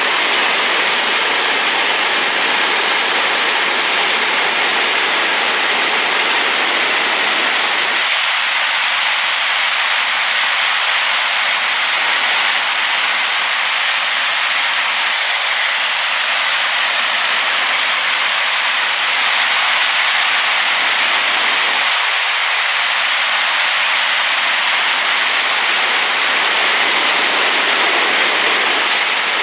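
Rain-swollen waterfall pouring steadily, a loud even rush of water with its strongest part in the middle and upper range. Its low rumble thins out for a long stretch in the middle.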